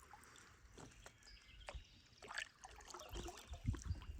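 Faint kayak paddling: light splashes and water trickling off the paddle, with a few soft low thumps in the last second.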